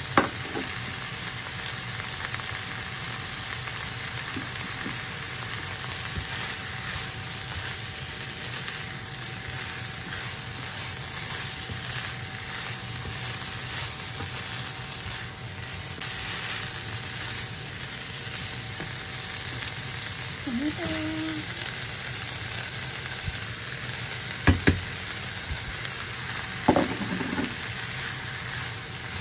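Ground meat, onion, carrot and sliced mushrooms sizzling steadily in a non-stick frying pan while being stirred with a spatula. A few sharp knocks come about a second in and again near the end.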